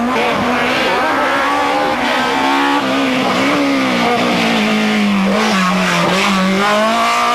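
BMW M3 E30 Group A rally car's four-cylinder engine running hard at high revs on a stage, its note held steady, dipping briefly about five seconds in and then climbing again.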